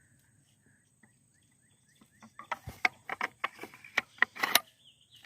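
A run of sharp clicks and knocks lasting about two seconds, starting about two seconds in: metal parts of a semi-automatic gun being handled and fitted back together during reassembly.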